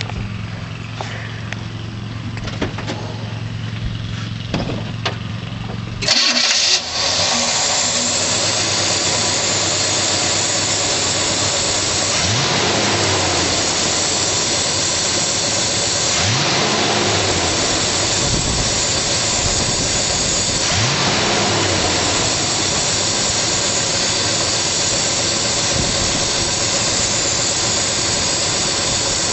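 A 1966 Chevelle's 396 big-block V8 fires about six seconds in with a sudden loud burst, then runs steadily and is revved briefly three times. Before it starts there is a steady low hum.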